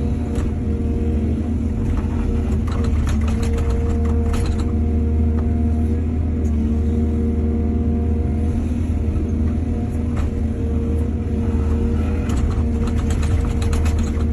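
A diesel excavator's engine running steadily, with two spells of clattering and knocking: one about three seconds in and another near the end.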